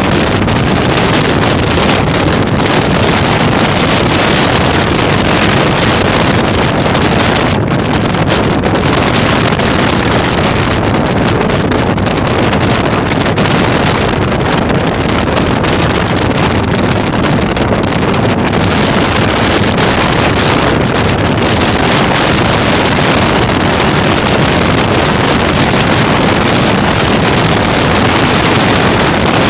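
Loud, steady wind noise blasting the microphone of a Yamaha Virago 1100 motorcycle at riding speed, drowning out the engine.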